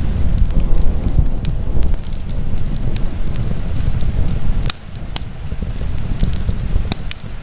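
Wood fire burning in a fireplace: a low, steady rumble of flames with scattered sharp crackles and pops of burning wood. The rumble drops briefly about five seconds in, then picks up again.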